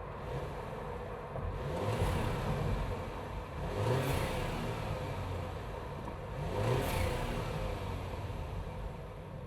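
BMW B48 2.0-litre turbocharged four-cylinder, Stage 1 tuned, heard from inside the engine bay, revving up and dropping back several times. The biggest rises come about 2, 4 and 7 seconds in, and the last two carry a rushing hiss at their peak.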